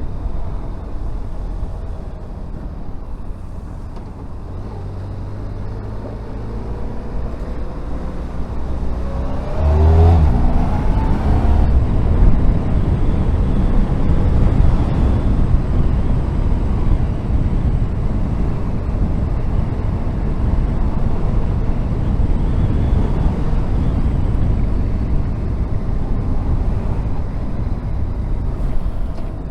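Honda VFR1200F's V4 engine running under a steady rush of wind and road noise. About ten seconds in the bike accelerates: the engine note rises sharply and the noise grows louder and stays so.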